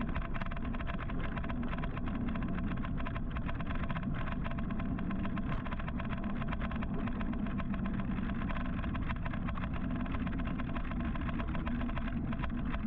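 Steady city traffic noise heard from a moving electric motorcycle, with the engines of nearby vehicles and a faint steady whine running through it.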